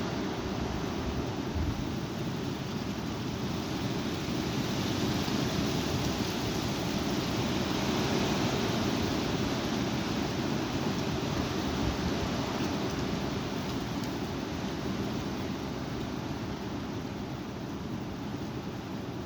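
Strong wind blowing in a snowstorm, a steady rush that swells in a gust from about four seconds in and slowly eases off toward the end.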